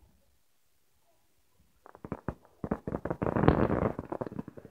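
Aerial fireworks bursting: a short quiet, then from about two seconds in a quick series of bangs and pops that thickens into dense crackling near the end.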